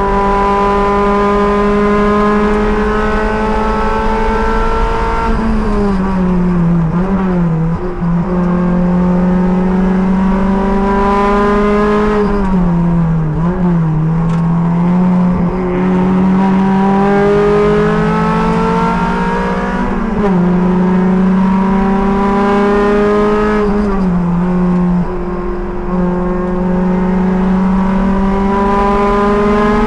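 Race car engine heard from the cockpit at full race pace: the revs climb slowly under load, then fall sharply into the braking zones with quick blips on the downshifts, several times over, before pulling up through the revs again.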